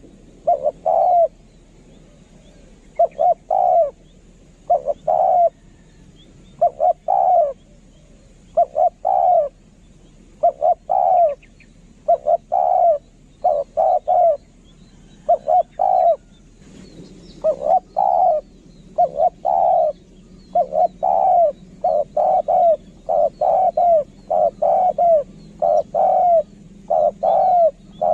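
Spotted doves cooing: short, loud coo notes in groups of two or three, repeated over and over. The phrases come faster and run into one another after about seventeen seconds.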